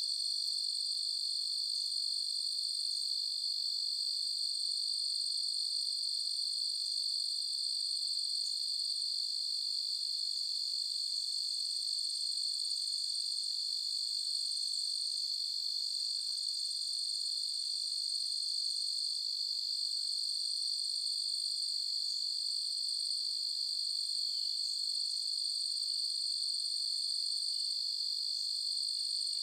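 Chorus of crickets chirping in a steady, unbroken high-pitched trill.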